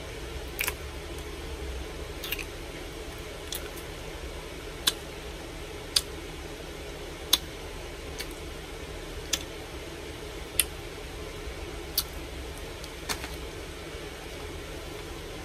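Noisy open-mouth chewing of a chicken sandwich: sharp wet smacks about once a second over a steady low hum.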